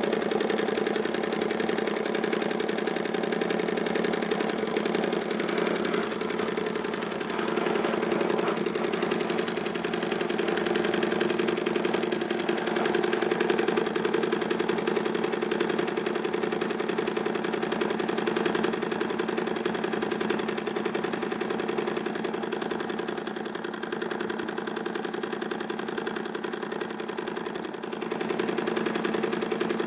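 Ernst Plank Cosmo toy vertical steam engine running steadily at speed, a fast, even mechanical chuffing and clatter.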